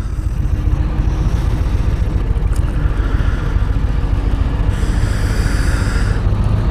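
Harley-Davidson Low Rider ST's V-twin engine running with a steady low rumble while the bike is ridden slowly.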